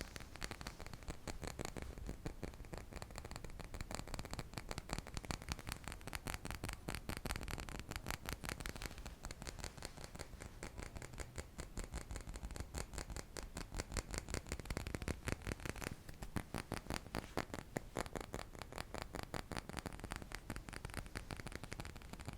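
Gentle ASMR tapping: rapid, light taps, many a second, in a steady run with a scratchy edge.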